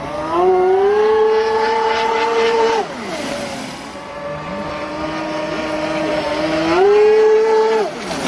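Small four-cylinder model engine revving twice. The first rev comes about half a second in and is held for about two seconds before falling back to a steady lower speed. The second rises near the end and drops back after about a second.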